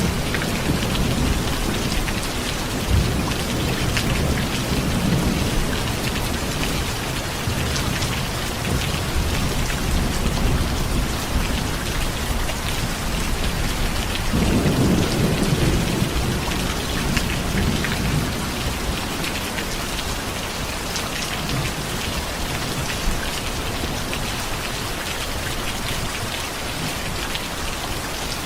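Steady rain falling, with thunder rumbling low beneath it; a fresh roll of thunder sets in suddenly about halfway through and fades over a few seconds.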